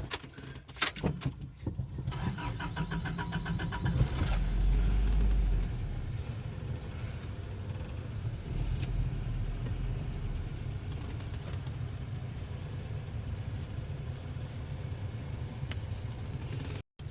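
1985 Toyota Pickup engine being started: a few clicks, then the starter cranking rapidly for about two seconds. The engine catches about four seconds in with a brief loud rev, then settles into a steady idle.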